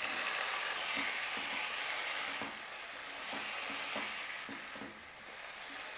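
Diced tomatoes sizzling in hot olive oil with golden garlic in a pan, while a silicone spatula stirs them, scraping the pan in short strokes about twice a second. The sizzle is strongest for the first two and a half seconds, then settles lower.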